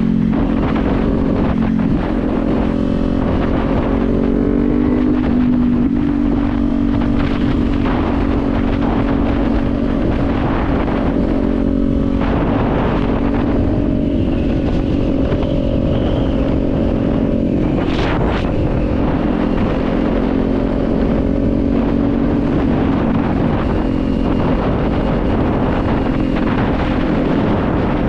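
Kawasaki Z400 parallel-twin engine running at cruising speed, with wind noise on the helmet microphone. The engine note eases down over the first few seconds, then holds steady; one sharp click about two-thirds of the way through.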